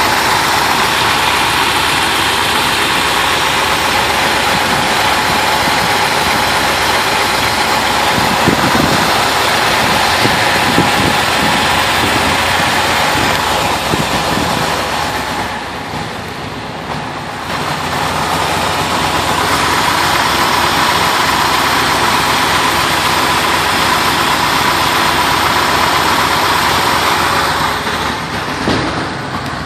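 Small-block Chevrolet V8 idling steadily in a 1966 Corvette, briefly quieter about halfway through.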